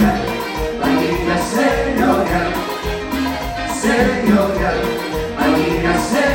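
Live Latin tropical dance orchestra playing an instrumental salsa-style passage with a steady beat and no singing.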